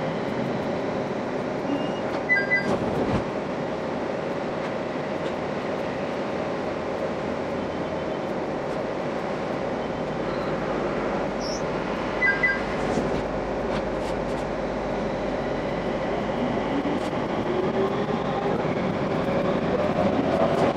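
Running noise of a local train heard from the cab, sped up to five times normal speed. A short two-note beep sounds twice, about ten seconds apart. Near the end a rising motor tone comes in as the train picks up speed.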